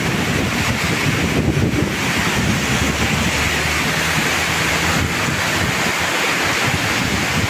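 Heavy tropical rain pouring down steadily onto the road and a corrugated sheet roof overhead, with the low hum of vehicles passing on the wet road.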